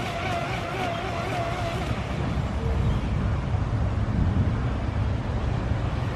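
Boat motor running under way, with a wavering whine for the first two seconds, then a steady low rumble and a rushing noise of wind and water.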